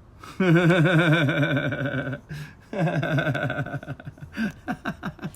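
A man's voice making two long, wavering, warbling vocal sounds with a quick wobble in pitch, then breaking into quick short bursts of laughter near the end: mocking, taunting laughter.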